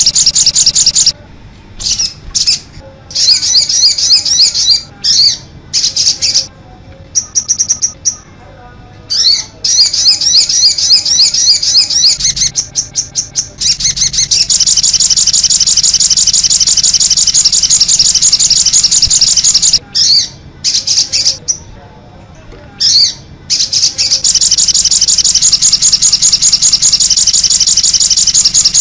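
Sogon bird song in its 'cit anten' style: a dense run of rapid, high-pitched chirps, cut off abruptly by several short silent gaps.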